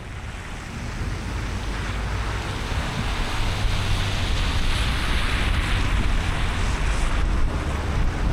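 Car driving on a wet road in the rain: tyre hiss and low road rumble, growing louder over the first few seconds, then steady.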